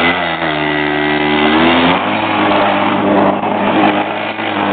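Mini bike's small single-cylinder engine revving. Its pitch climbs, then drops sharply about two seconds in, and it runs on steadily at a lower pitch.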